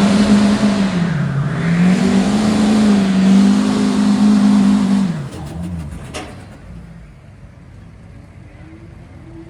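Hot stock diesel pickup truck running at full throttle on a pull, its engine pitch wavering up and down, then the throttle is lifted and the engine drops away about five seconds in. A single sharp knock follows about a second later, and the engine then runs much quieter.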